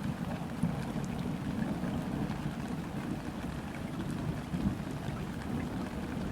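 Gentle rain falling onto a river's surface: an even patter with scattered tiny drop ticks over a steady low rumble, with no single loud event.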